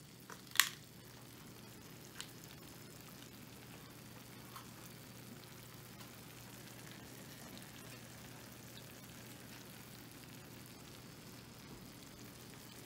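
Cornbread batter frying in hot oil in a nonstick skillet: a faint steady sizzle with a few scattered pops, the loudest about half a second in.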